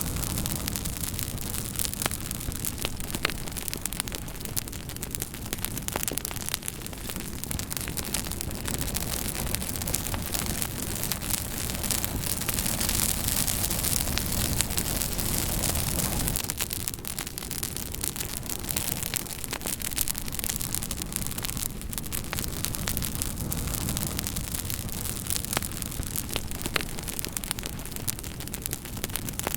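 Wood campfire burning with a steady rushing hiss and many sharp crackles and pops throughout, the hiss swelling for a few seconds about midway.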